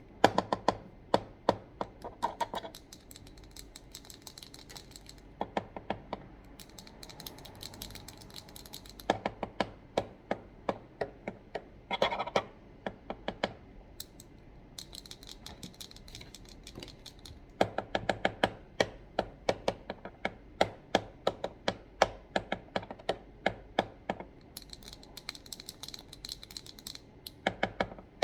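Fast tapping and scratching on office items such as a computer keyboard, mouse and pens: quick runs of sharp clicks broken by short pauses, some stretches with a brighter scratching sound.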